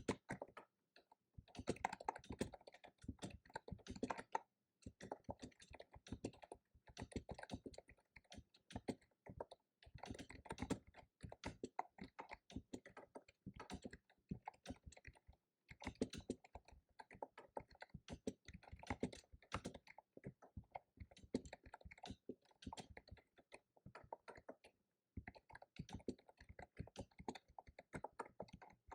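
Computer keyboard typing in bursts of rapid keystrokes, broken by short pauses of about a second.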